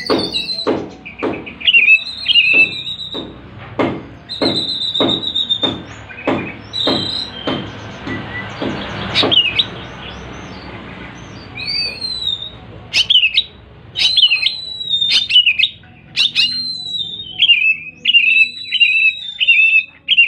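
Oriental magpie-robin (kacer) singing vigorously: varied whistled phrases with quick rising and falling glides, becoming denser and more continuous about twelve seconds in. During the first nine seconds a regular knocking, about two a second, runs under the song.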